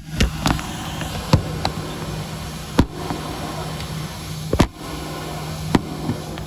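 Irregular sharp knocks and bumps, about eight of them, over the steady low hum of an airliner cabin.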